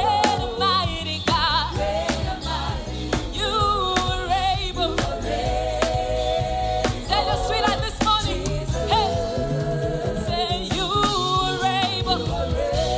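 Live gospel worship music: a singer with a wide vibrato over a band with steady bass and regular drum hits.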